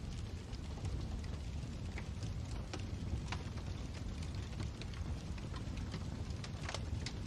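Wood fire burning in a fireplace: a steady low rumble of the flames with irregular crackles and pops, a few sharper pops standing out.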